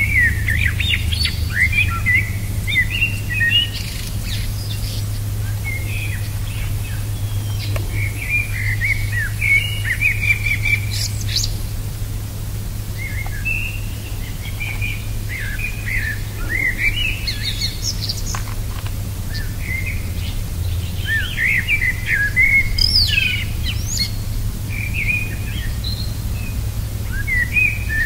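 Birds chirping: quick runs of short notes that slide up and down in pitch, repeating throughout, over a steady low hum.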